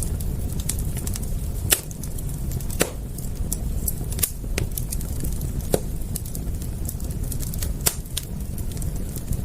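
Wood fire crackling, with irregular sharp pops and snaps, four of them louder than the rest, over a steady low rumble.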